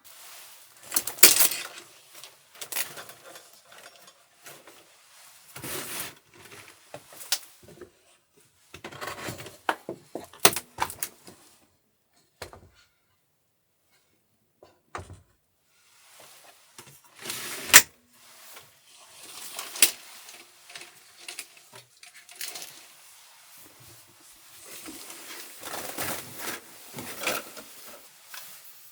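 Small hard objects being handled: scattered clicks, knocks and clatters with rustling between, the sharpest knocks about a second in and about eighteen seconds in, and a few quiet seconds midway.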